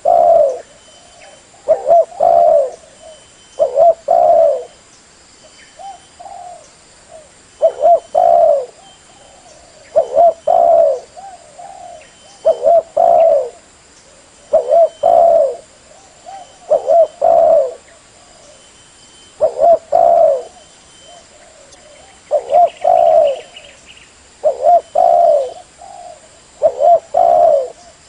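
Spotted dove (terkukur) cooing: a repeated multi-note coo phrase, one roughly every two seconds, used as a lure call for trapping doves.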